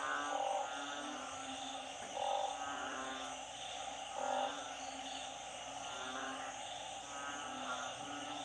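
A chorus of frogs calling from floodwater: narrow-mouthed frogs (อึ่ง) and small frogs (เขียด) giving repeated pulsed croaks. A louder call comes about every two seconds, over a steady high-pitched background chorus.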